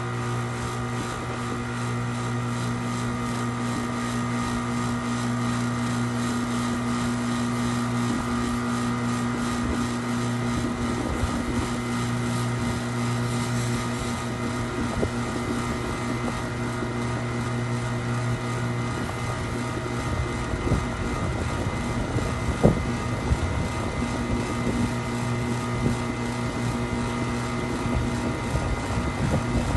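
A machine running with a steady hum made of several held tones. Its deepest tone drops away about twenty seconds in, and a few short knocks follow.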